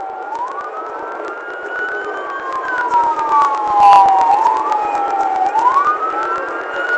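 Police car sirens in wail mode, more than one slowly rising and falling out of step, with a sharp knock about four seconds in.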